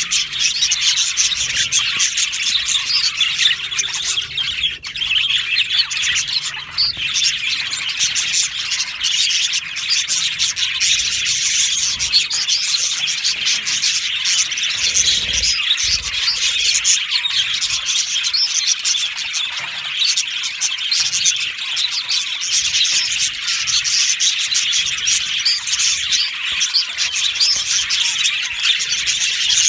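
A flock of budgerigars chirping and chattering without a break, many birds calling over one another.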